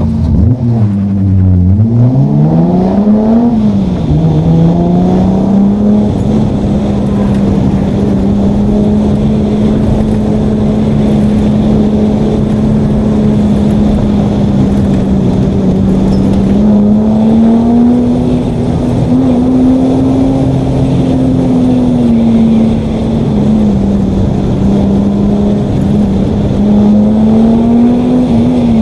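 Datsun 280Z's straight-six engine pulling hard on an autocross course. The revs drop and climb again in the first couple of seconds, then hold fairly steady with small rises and falls.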